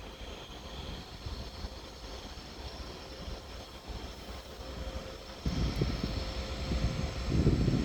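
Train moving through the station hall: a steady low rumble that grows suddenly louder about five and a half seconds in, with a faint high whine above it.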